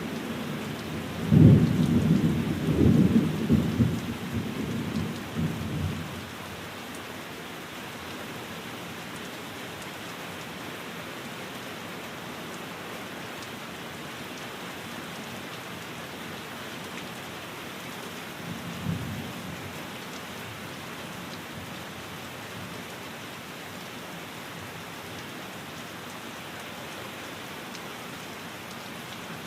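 Steady rain falling on a window. A low roll of thunder rumbles for several seconds near the start, and a brief, fainter rumble comes about two-thirds of the way through.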